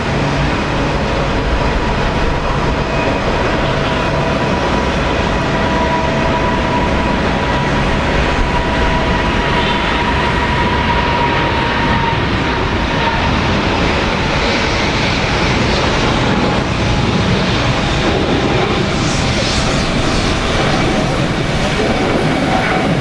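Boeing 777-200 airliner's twin turbofan engines running loudly: a steady rushing noise with several whining tones, the highest of which fades about halfway through.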